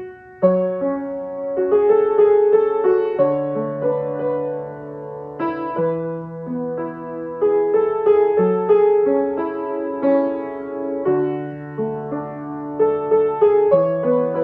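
Piano music: a slow, gentle melody of single notes over held bass notes.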